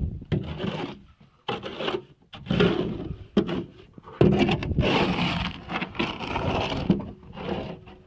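Trowel scraping and spreading concrete patch mix over a concrete surface in a series of irregular strokes.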